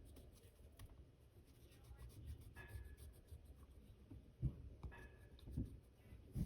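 Faint scratching of a colouring pencil shading on paper, with a few soft knocks in the second half.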